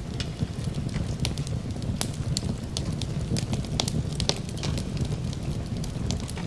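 Wood fire crackling and popping in a fireplace, many sharp irregular snaps over a steady low rumble of the flames, with an even hiss of rain beneath.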